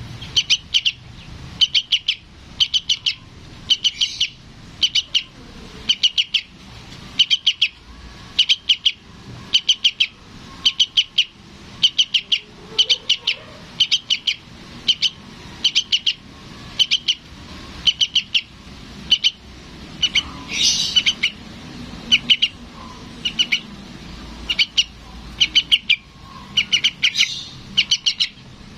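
Juvenile sooty-headed bulbul (trucukan) begging for its parent: short clusters of quick, high chirps repeated about one and a half times a second, with one louder, harsher call about two-thirds of the way through.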